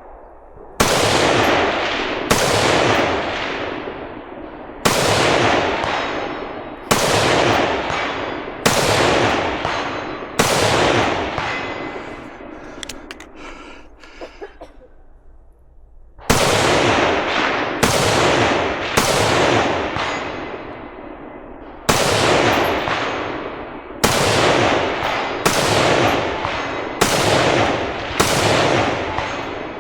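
A string of about sixteen gunshots, one every one to two seconds, each followed by a long echoing tail. There is a pause of about four seconds midway.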